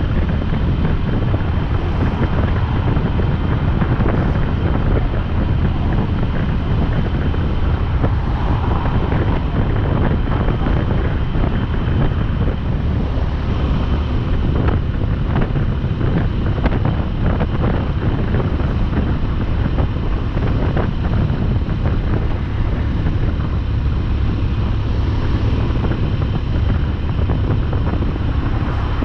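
Wind buffeting the microphone of a motorcycle at road speed, a steady rush with the motorcycle's engine and road noise underneath.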